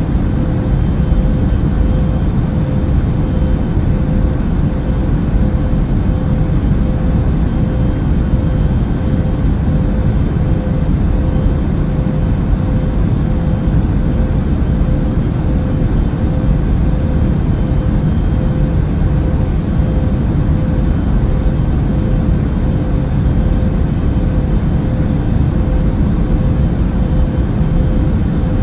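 Airbus A380 airliner in flight: a steady, unbroken low rumble of engines and rushing air, with a thin, steady mid-pitched hum running through it.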